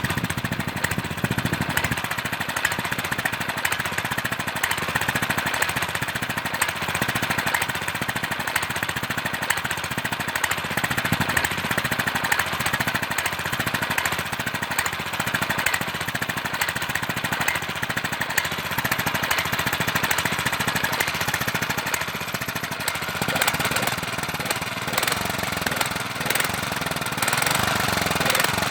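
Lombardini LGA 225 single-cylinder four-stroke petrol engine running steadily with a fast, even pulsing beat, getting a little louder near the end.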